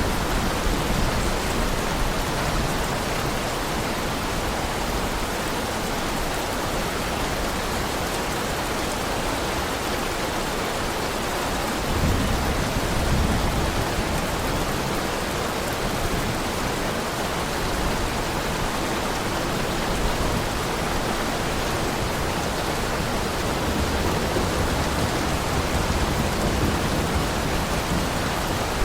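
Heavy rain falling steadily, with a low rumble of thunder about twelve seconds in.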